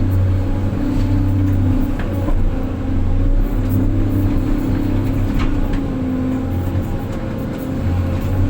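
Heavy diesel engine of earthmoving machinery running steadily, its note swelling and easing every second or two as it comes under load, with a few sharp clicks over it.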